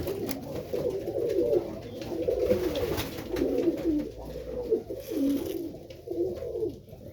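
Serbian Highflyer pigeons cooing in the loft, repeated wavering coos one after another with a few faint clicks among them.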